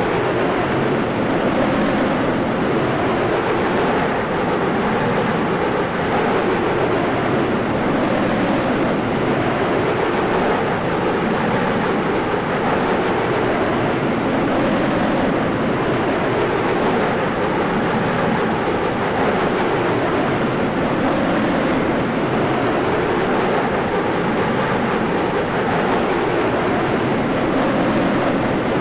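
Steady, loud rush of airstream and engine noise on a camera mounted outside a military aircraft's fuselage in flight, with wind buffeting the microphone.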